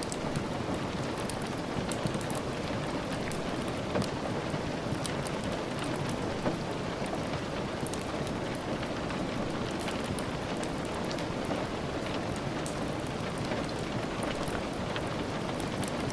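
Steady rain mixed with the soft crackle of a wood fire, with scattered sharp little ticks and pops throughout.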